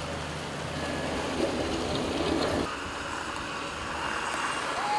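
Floodwater rushing through a street as a steady noise, mixed with vehicle sounds; the noise swells for about a second in the middle, and a short tone sounds near the end.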